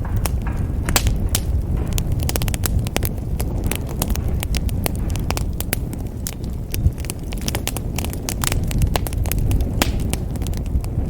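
Wood fire burning in a fireplace: a steady low rumble of flames with dense, irregular crackles and pops, one of them louder about seven seconds in.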